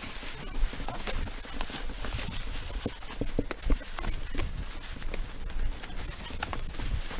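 Mountain bike riding down a rocky trail: irregular knocks and clatter as the tyres hit stones and the chain and frame rattle, over a steady rumble of wind on the microphone.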